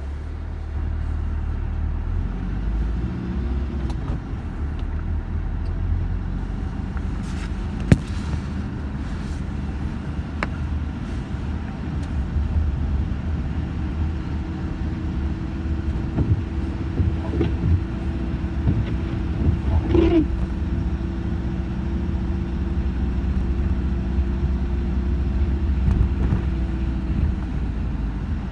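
Low steady rumble of a running motor vehicle, with a steady hum joining about halfway through and a single sharp click about eight seconds in.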